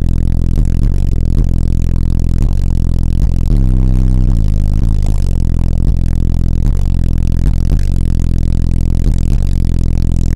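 A car's engine running, heard from inside the cabin as a loud, low, steady drone that shifts briefly about four seconds in, with some rattling and scraping over it.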